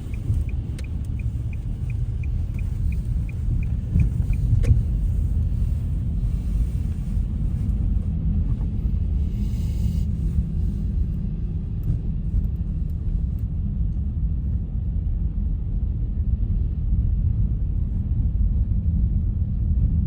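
Steady low rumble of a car driving on snowy roads, heard from inside the cabin. A fast, even ticking, about three a second, runs for the first four or five seconds and then stops.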